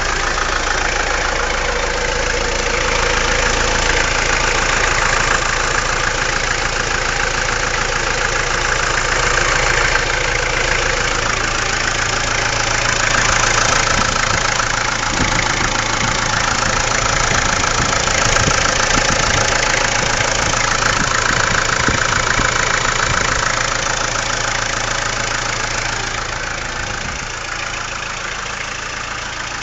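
Mahindra MM 540 DP tractor's diesel engine running steadily, becoming a little quieter near the end.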